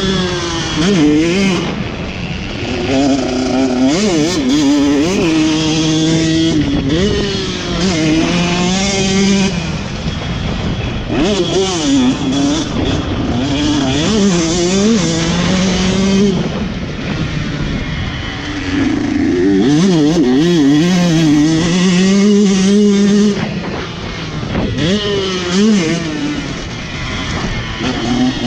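Motocross dirt bike engine heard from an onboard camera, revving up and dropping back again and again as the rider accelerates, shifts and rolls off around the track.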